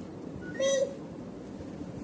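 Indian ringneck parrot giving one short, high call about half a second in.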